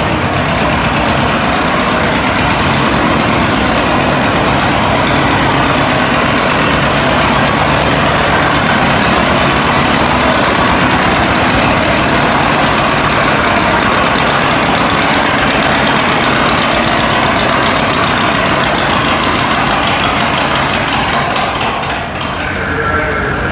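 Antique pulling tractor's engine running hard and loud under full load during a pull, easing off near the end.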